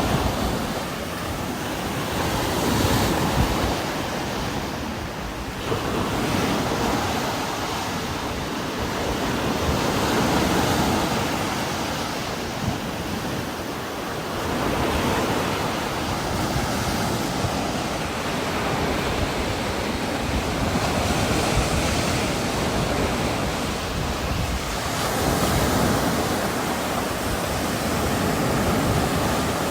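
Heavy rain falling in strong wind that gusts through trees, the sound swelling and easing in slow waves every few seconds.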